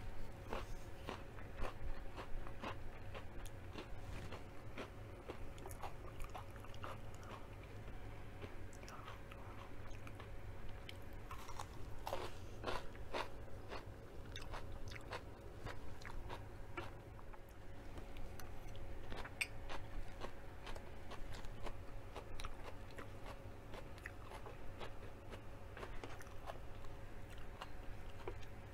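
Close-miked chewing and biting of crunchy food, breaded fried zucchini and raw carrot sticks, with many short crisp crunches. A faint steady hum runs underneath.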